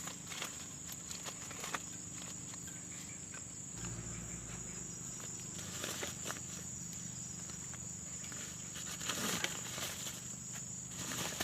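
An insect's steady high-pitched buzz, with scattered small clicks and rustles.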